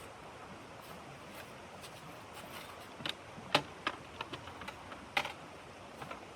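Irregular sharp clicks and light knocks, clustered from about three to five seconds in, over a steady low hiss.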